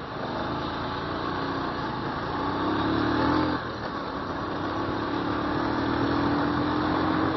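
Motorcycle engine accelerating, its pitch rising, then dropping suddenly with an upshift about three and a half seconds in, after which it climbs again.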